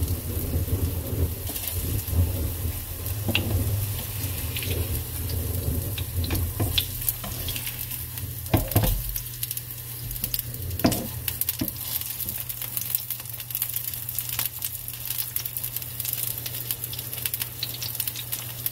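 Salmon patties frying in oil in a nonstick skillet: steady sizzling with crackling pops, and a few knocks and scrapes from a plastic slotted turner against the pan as they are moved and lifted.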